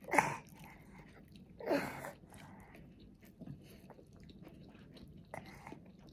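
A toddler chewing and eating a mouthful, with light clicks of a metal fork against a ceramic plate. Two short, louder sounds come right at the start and about two seconds in.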